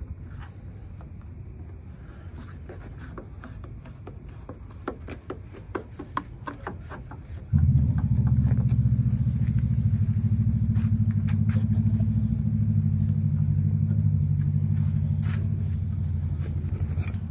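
Light clicks and taps over a low rumble, then about halfway through a vehicle engine comes in abruptly and runs at a steady idle hum.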